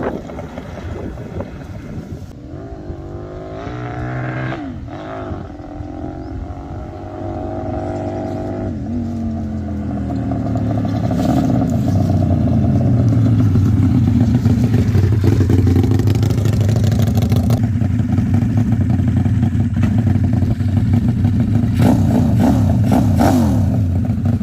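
Homemade V4 engine, built from scrap-yard engines, running and being revved: its pitch rises and falls several times in the first half, then it runs louder and steadier at higher speed.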